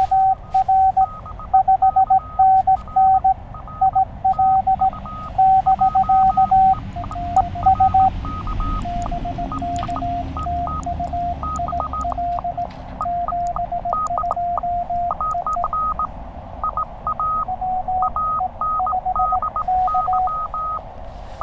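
Morse code (CW) tones from a Penntek TR-35 QRP transceiver, over steady band hiss: two stations keying at once at different pitches. The lower-pitched signal is strong for the first several seconds and then fades, while the higher-pitched one keys on throughout. A second station has moved onto the operator's frequency and is causing interference.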